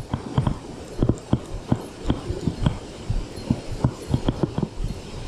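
Irregular low, dull knocks, about three a second, from a loosely mounted GoPro shaking and rattling in its mount, handling noise rather than any sound of the scene.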